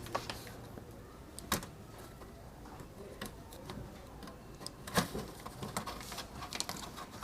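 Scattered light clicks and taps of hands and tools working on an opened transistor amplifier's circuit board, with one sharper click about a second and a half in and a run of small clicks near the end.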